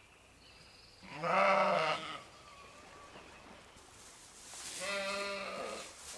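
A bleating farm animal calls twice with wavering, quavering bleats. The first comes about a second in and is the louder; the second, near the end, is a little quieter and longer.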